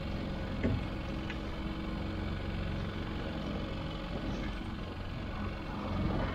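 Small outboard motor running steadily at trolling speed, a low even hum, with a couple of faint knocks about a second in.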